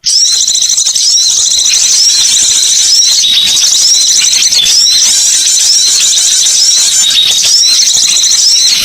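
Dense, continuous high-pitched twittering of many small songbirds, a bird-lure recording, with overlapping short chirps and hooked notes throughout.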